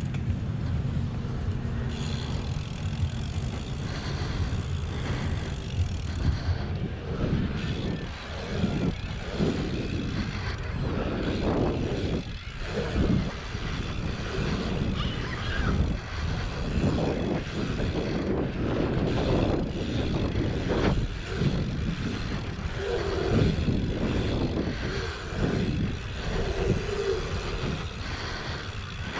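Wind rushing and buffeting over the microphone of a helmet-mounted action camera while riding a BMX bike around a track, with the low rumble of the ride underneath.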